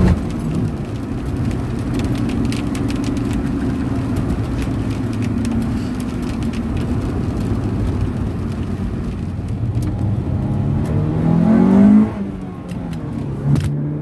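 Acura Integra four-cylinder engine running while the car is driven, a steady hum. Near the end the revs climb under acceleration, then drop off sharply, and there is a shorter rise and fall just after.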